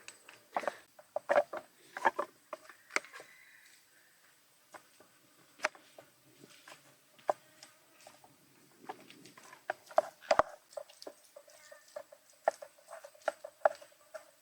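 Irregular sharp clicks and light taps, in clusters of several with short pauses between.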